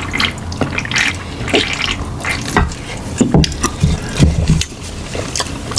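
Close-up wet eating sounds: chewing and lip smacking with scattered short clicks.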